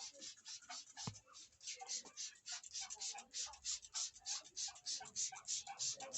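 Rapid rhythmic scrubbing strokes on a motorcycle during a wash, about four or five a second, growing louder after the first second or so.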